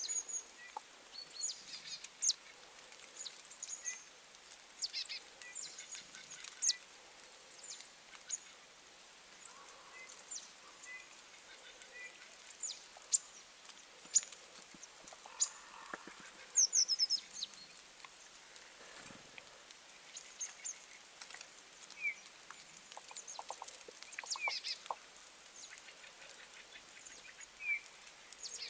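Birds calling: many short, high chirps at irregular intervals, with a quick rapid run of notes about two-thirds of the way through.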